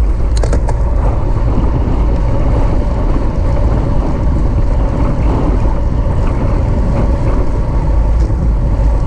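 Steady, loud wind rush buffeting the microphone of a camera riding along on a racing bicycle at speed, with a few faint clicks about half a second in.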